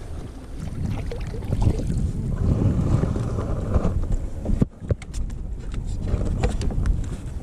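Wind rumbling on the microphone out on the water from a kayak, with scattered light clicks and knocks in the second half.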